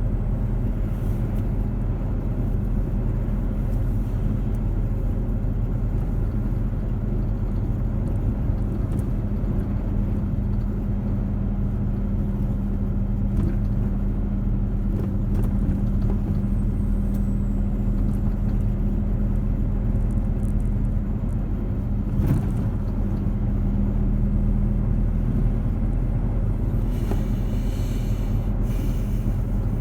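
Steady low rumble with a constant hum, like a running vehicle engine, with a sharp click about 22 seconds in.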